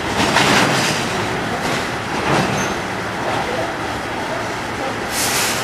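Container freight train wagons rolling slowly past, a steady rumble and rattle of wheels on rail. There is a short burst of hiss about half a second in and another near the end.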